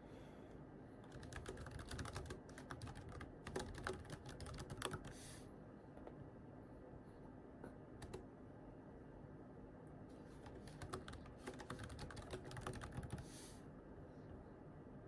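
Soft computer keyboard typing in two runs of quick key clicks, one starting about a second in and another about ten seconds in, with a pause between.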